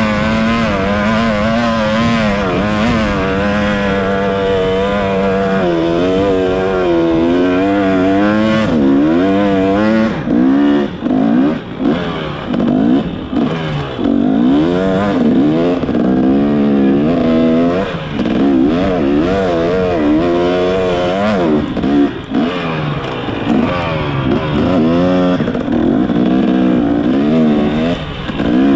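Motorcycle engine running while riding. Its pitch is fairly steady at first, then rises and falls over and over with the throttle from about six seconds in.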